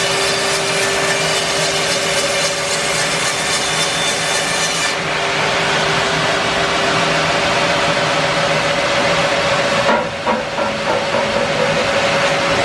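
Bandsaw mill running and sawing through an English larch log, a steady loud noise with a held tone. The high hiss falls away about five seconds in, and there is a brief dip with a few knocks near the end.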